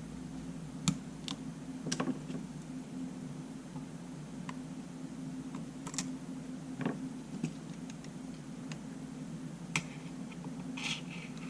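Irregular small clicks and taps of hand tools working on a camera body during disassembly, as a part is pried loose, over a steady low hum.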